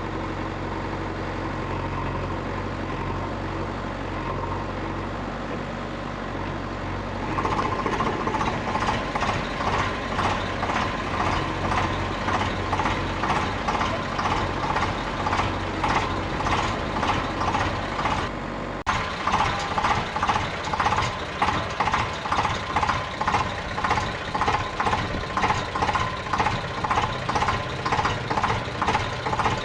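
A small motor running: a steady low hum, then about seven seconds in a louder, evenly pulsing mechanical sound takes over, a little more than one pulse a second, with a brief break past the halfway point.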